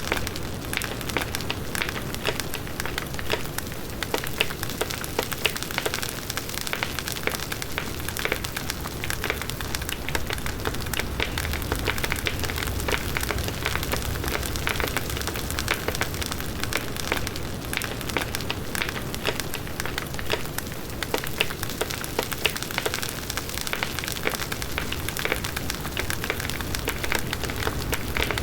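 Large bonfire burning: wood crackling and popping in dense, irregular snaps over a steady rush and low rumble of flames.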